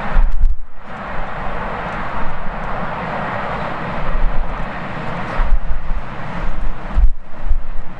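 Jet airliner's engine roar, heard with strong wind gusts buffeting the microphone in uneven low thumps.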